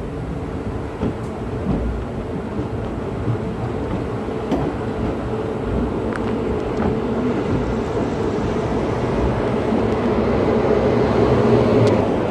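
Train running past on the track: a continuous rumble of wheels on rail with scattered clicks, growing a little louder toward the end.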